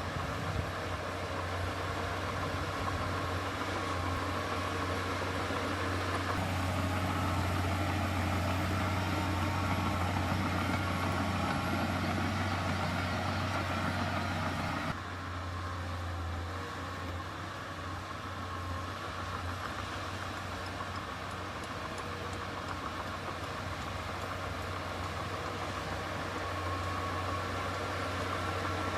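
Heavy diesel engine of earthmoving machinery running steadily, growing louder about six seconds in, then dropping suddenly to a lower level about halfway through.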